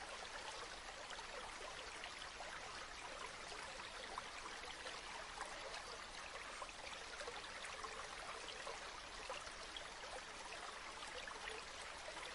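Flowing river water: a steady, faint wash of running water dotted with many small splashes.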